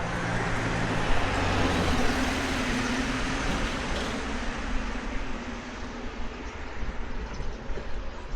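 Road traffic noise, with a vehicle passing: a broad rush that swells over the first few seconds and fades gently afterwards, with a low engine hum.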